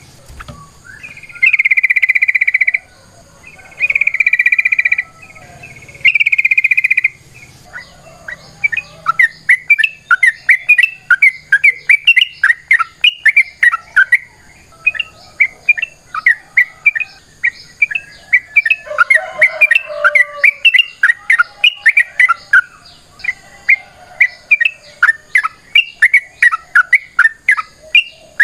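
Yellow-vented bulbul (trucukan) calling. It opens with three long, even notes of about a second each. From about eight seconds in comes a long, fast run of short chirping notes, the bird's excited 'ropel' chatter.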